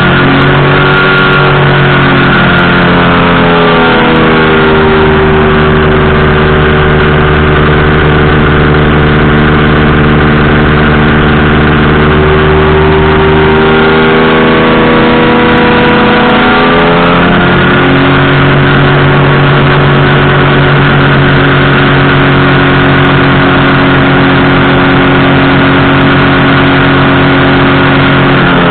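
Powered parachute's engine and propeller running loud and steady, its pitch dropping a few seconds in, climbing again around the middle, and dropping once more at the end.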